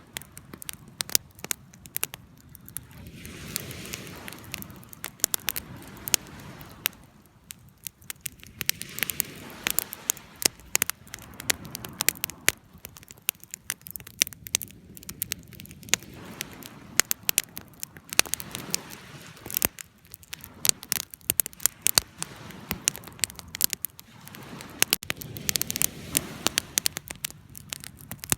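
Wood fire burning, crackling with frequent sharp pops and snaps over a soft, low rush of flame that swells and fades.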